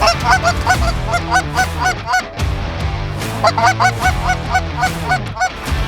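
Goose honking: rapid series of short, clipped honks, about four or five a second, in two runs with a pause between them.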